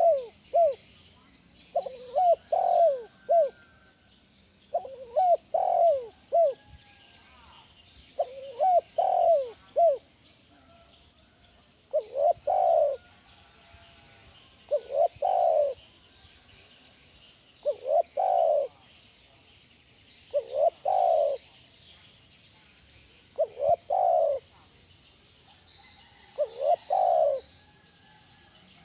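Spotted dove (tekukur) cooing over and over, a phrase about every three seconds, each phrase a few short hooting notes. It is a loud, full-voiced song of the kind used as a master call to set caged tekukur calling.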